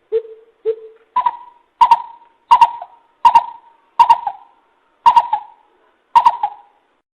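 Greater coucal giving a series of nine hoots, about one every 0.7 s. The first two are lower and the rest step up to a higher pitch, each starting with a sharp click.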